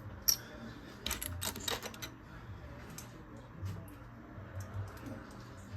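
Lego pieces clicking and rattling as they are handled: one sharp click near the start, a quick run of clicks about a second in, then scattered single clicks.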